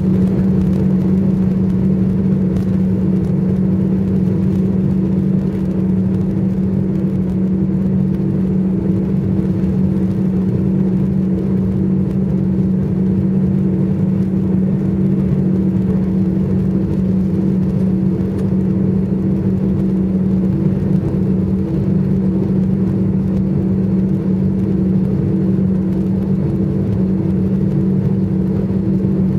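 Airliner cabin noise while taxiing after landing: a steady low hum of engines at idle and cabin air, with two constant low tones.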